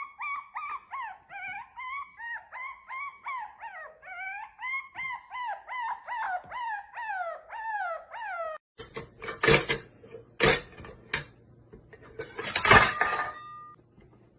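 A quick run of short pitched calls, two or three a second, each bending in pitch like an animal's call. A few seconds before the end this gives way to several loud, harsh, noisy bursts over a low steady hum.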